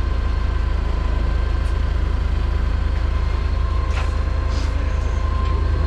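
Heavy diesel engine of the machine carrying the wheel, running steadily with a deep rumble, with a faint steady whine and a couple of light clicks about four seconds in.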